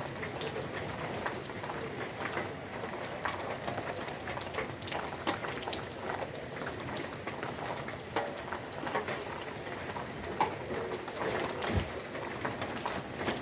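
Steady rain falling, with many individual drops ticking sharply on nearby surfaces. A brief low thump sounds near the end.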